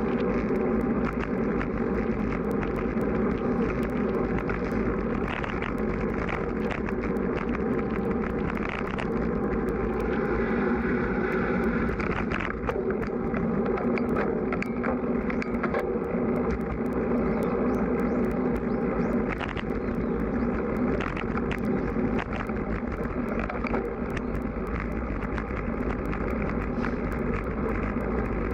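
Steady rolling and wind noise from riding a road bike in strong wind, with wind buffeting the microphone and frequent small clicks and rattles throughout.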